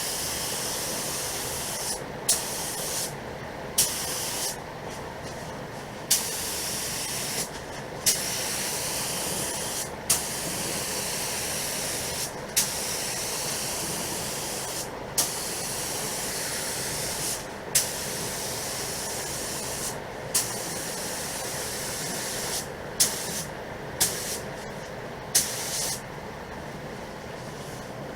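Compressed-air paint spray gun hissing in a dozen or so short passes, each two seconds or so, starting with a sharp pop as the trigger is pulled and with brief gaps between, while spraying single-stage white paint mixed with clear. A steady lower background noise runs underneath.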